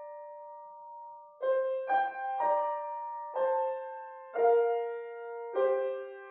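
Solo piano playing a slow, gentle melody: one note left ringing for about a second, then a phrase of six single struck notes, each fading as it rings.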